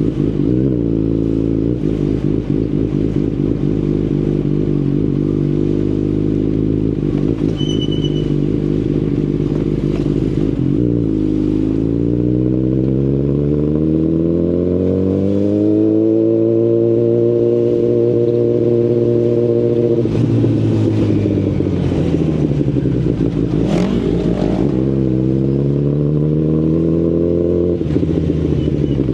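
2019 Kawasaki Ninja ZX-10RR's inline-four engine through an Akrapovic carbon full exhaust system, riding. The revs climb about twelve seconds in, hold steady for a few seconds, drop away, then climb again and ease off near the end.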